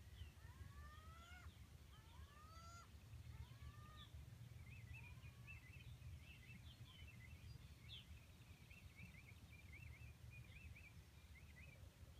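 Birds calling faintly: several rising whistled calls in the first few seconds, then a run of quick chattering notes that lasts until near the end. A steady low rumble sits underneath.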